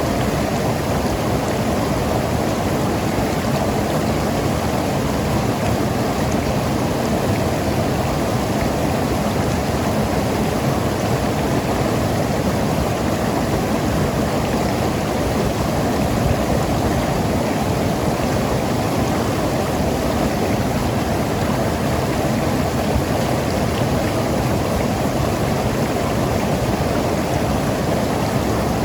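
Mountain river flowing over rocks, a steady rushing and gurgling of water.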